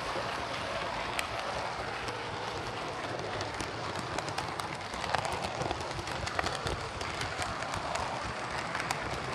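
OO gauge Lima Class 117 model DMU running on model railway track, its motor bogie converted to a CD motor. Wheels roll on the rails with a steady rattle and scattered sharp clicks, swelling and fading in loudness as it runs. The unit is running well after the repair.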